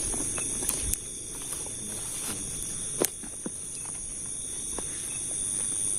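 Night insect chorus: a steady high-pitched shrilling in several bands. Scattered light clicks and crunches, like footsteps in undergrowth, with one sharp click about three seconds in.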